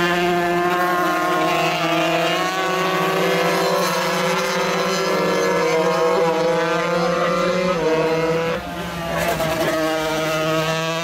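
Several 125cc racing motorcycle engines running at high revs, loud, their overlapping notes rising and falling over one steady drone. The sound drops briefly about eight and a half seconds in, then the engine notes climb again.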